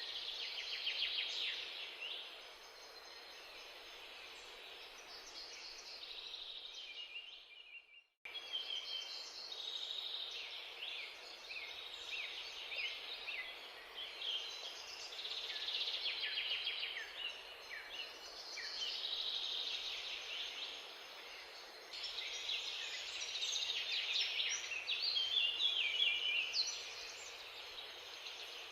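Small birds chirping busily over a steady background hiss, with a brief cut-out about eight seconds in.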